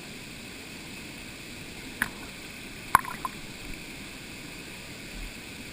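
Steady rush of water from a waterfall, even and unchanging. Two sharp clicks cut through it about two and three seconds in, the second louder and followed by a couple of faint ticks.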